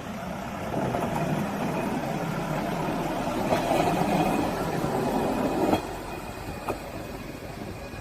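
Rail vehicle running along the track: a steady rumble that builds over the first few seconds, then drops off abruptly with a sharp click a little before six seconds in.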